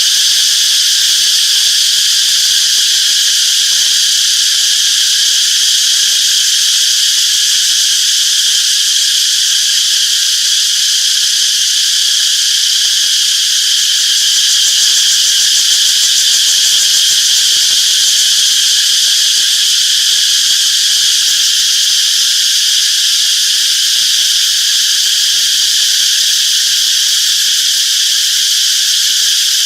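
A chorus of cicadas buzzing continuously, a loud steady high-pitched drone that never breaks.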